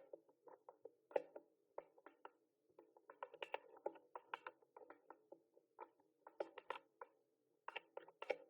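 Typing on a mechanical keyboard: quick runs of sharp key clicks in irregular bursts, with short pauses between them.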